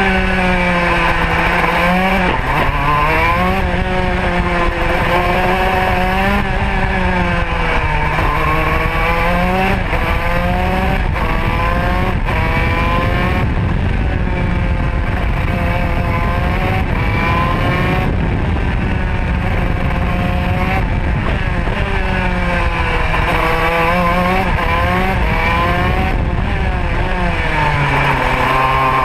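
Modena two-stroke kart engine at racing speed, heard onboard: the revs climb and drop again and again every few seconds as the kart accelerates out of corners and brakes into the next.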